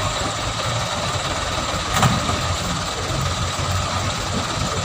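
Truck engine idling steadily, with one sharp knock about two seconds in.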